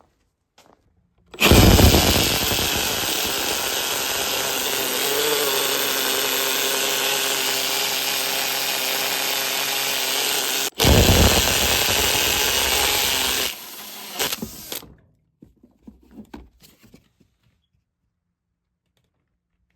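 Macerating toilet's pump motor running with a loud, steady whine, cutting out for an instant about nine seconds after it starts and starting again, then stopping after about twelve seconds in all, with a quieter sound trailing on for a second or so.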